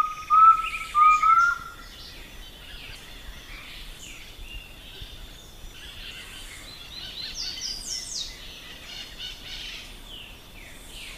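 Birdsong from several birds. It opens with four loud whistled notes in the first two seconds, each rising slightly at its end, and is followed by fainter, higher chirps, trills and falling whistles over a faint steady high tone.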